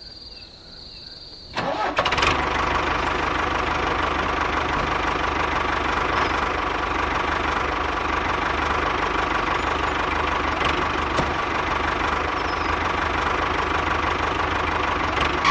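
A tractor engine starts abruptly about a second and a half in, then runs steadily with a faint, even whine on top.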